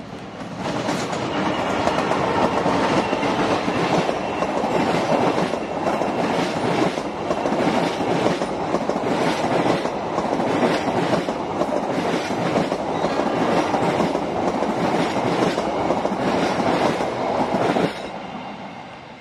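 An Indonesian KAI passenger train, headed by a diesel locomotive, passing close by: a steady loud rumble of wheels on rail with regular clicking over the rail joints. The noise drops off suddenly near the end as the last coach goes past, then fades away.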